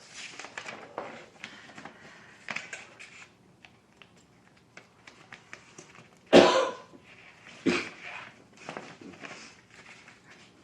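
A person coughing, two hard coughs a little past the middle, the first the louder, over light rustling and handling noises.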